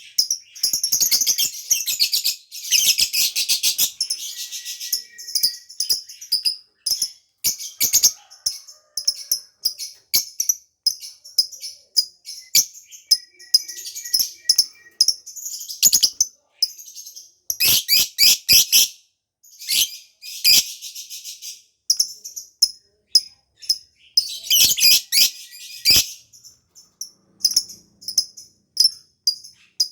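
Lovebird singing: high-pitched chirps and fast chattering, coming in several loud bursts of rapid chatter with sparser chirping between them.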